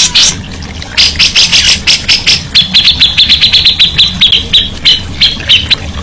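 Songbird singing: a series of quick, sharp high notes from about a second in, then a fast chattering trill of notes held near one pitch from about two and a half seconds in.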